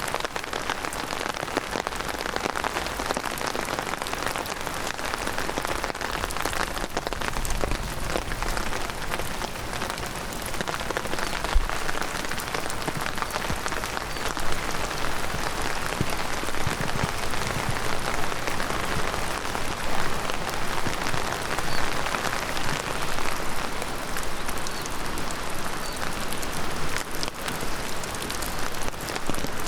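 Heavy rain pouring steadily, a dense patter of drops with one sharp drop-click standing out near the middle.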